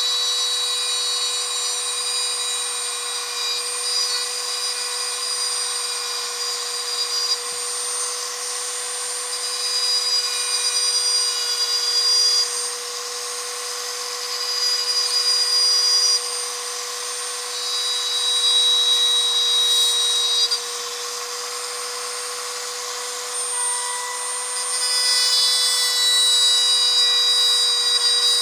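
Small high-speed rotary tool running with a steady whine, grinding down an HO slot car chassis. The grinding grows louder in repeated spells of a few seconds each time the bit is pressed to the part.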